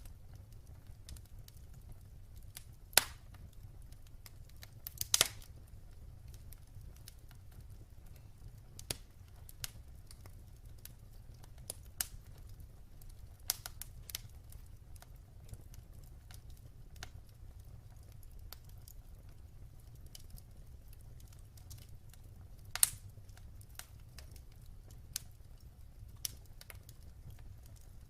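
Wood fire burning in a fireplace: a low steady rumble with scattered crackles and a few sharper pops, the loudest about three, five and twenty-three seconds in.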